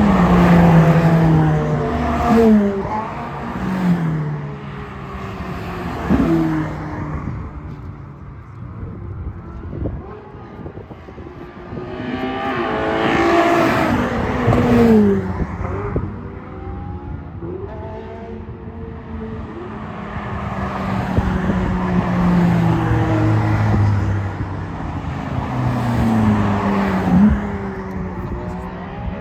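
Ferrari sports cars driving past one after another, their engines rising and falling in pitch as each goes by. The loudest passes come about a second in, around halfway, and near the end.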